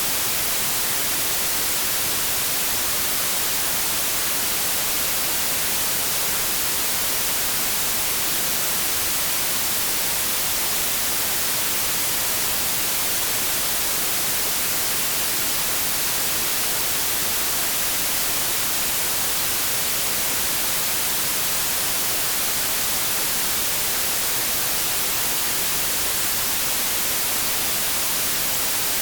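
Steady synthetic white noise: an even, unchanging hiss, brightest in the high range.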